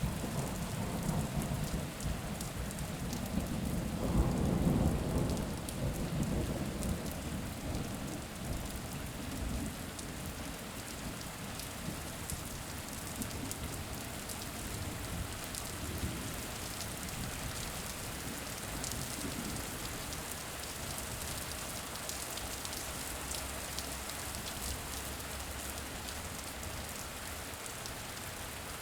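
Steady rain with a low rumble of thunder in the first several seconds, loudest about four to five seconds in, fading into the rain.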